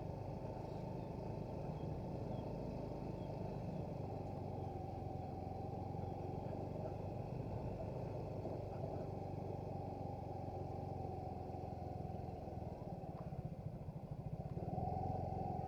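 Motorcycle running steadily while being ridden, a constant low drone with no clear change in engine speed.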